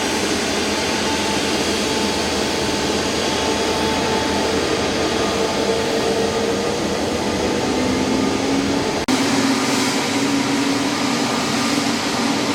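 Jet airliner engines running: a steady rush of noise with a high whine over it. The sound breaks off abruptly about nine seconds in and resumes at once with a lower, steadier whine.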